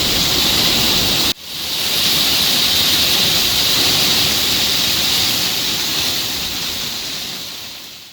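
Heavy rain pouring down in a steady hiss. It cuts off abruptly a little over a second in, comes straight back, and fades away near the end.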